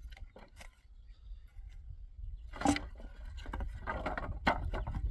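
Several sharp knocks, with scraping and rustling between them, over a low steady rumble. The loudest knocks come about two and a half seconds in and again near the end.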